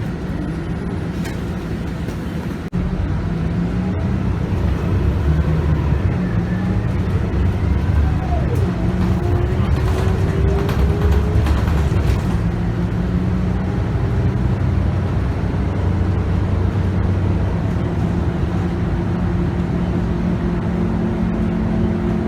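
Scania K280UB bus's 9.3-litre five-cylinder diesel engine and ZF Ecomat six-speed automatic gearbox, heard from inside the bus while it drives. It gets louder about three seconds in, and a short whine falls and then rises slightly around the middle.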